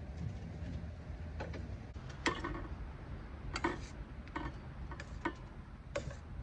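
A series of sharp, separate clicks and knocks, about seven over a few seconds with some close together, over a steady low rumble of wind on the microphone during a snow squall.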